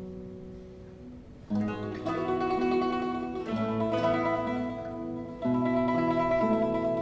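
A mandolin orchestra playing a slow, gently rocking piece on plucked strings. Soft held chords fade away, then about a second and a half in the full ensemble comes in much louder, with another swell near the end.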